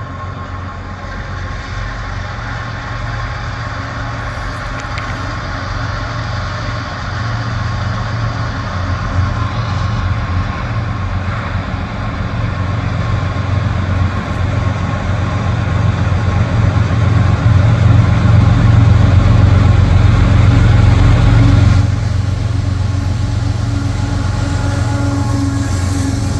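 Diesel engines of a lead consist of GE locomotives hauling a long freight train, a deep steady drone that grows louder as the train draws near. About 22 seconds in, the level drops suddenly and holds steady.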